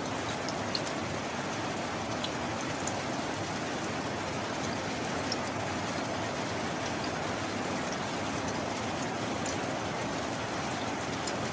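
Steady heavy rain falling, with scattered small drop ticks and no thunder.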